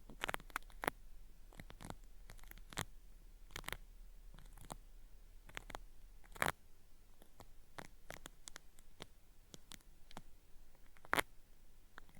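Cotton swab rubbing in a binaural microphone's ear, giving irregular crisp crackles and scratches of a peeling-style ear-cleaning sound, with a louder snap about six seconds in and another near the end.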